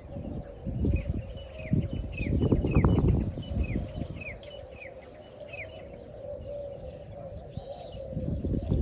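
A small bird calling with a string of short, downward-sliding chirps, one or two a second, for about five seconds. Low rumbling noise comes and goes beneath them.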